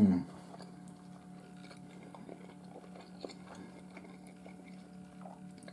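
A brief falling vocal sound right at the start, then faint chewing of a bite of barbecue chicken drumstick: soft, scattered mouth clicks over a steady low hum.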